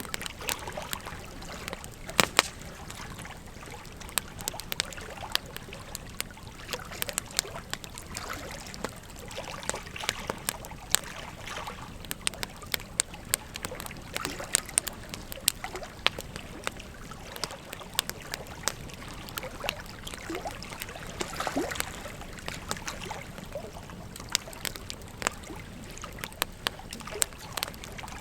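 Wood fire crackling with frequent irregular sharp pops, the loudest about two seconds in, over the steady rush of flowing river water.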